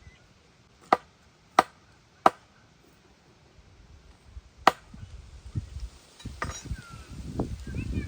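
A blade chopping down on wood: four sharp single strikes, the first three about two-thirds of a second apart and the fourth after a pause. These give way to a run of softer low knocks and handling clatter.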